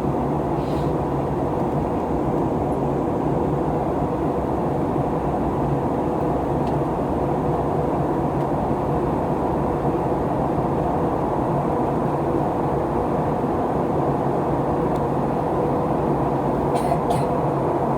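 Steady cabin roar of an Airbus A321neo in flight, from its Pratt & Whitney PW1100G geared turbofan engines and the airflow, with a low even hum running through it. A couple of faint clicks near the end.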